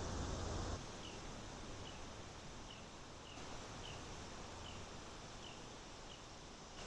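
A loud low rumble that cuts off abruptly under a second in. Then a steady outdoor hiss with a small animal's short, high chirp repeating about once a second.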